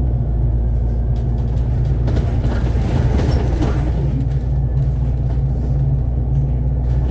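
Cabin noise of a moving Alexander Dennis Enviro500 MMC double-decker bus: a steady low drone from the engine and drivetrain. A swell of road noise with light rattles comes about two to four seconds in.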